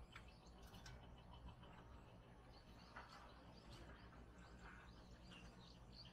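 Near silence with a faint low hum and scattered short, high bird chirps in the second half.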